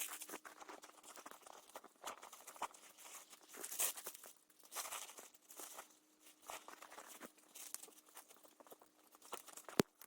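Small, newly lit campfire of thin kindling crackling faintly, with irregular little pops and one sharper snap near the end.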